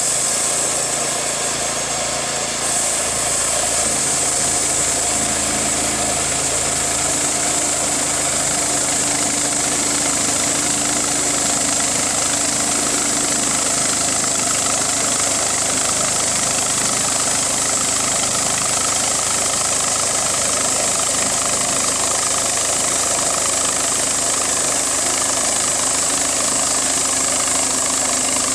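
An engine running steadily at a constant speed, with a steady high-pitched band over it. A bright hiss at the very top fades out about two and a half seconds in.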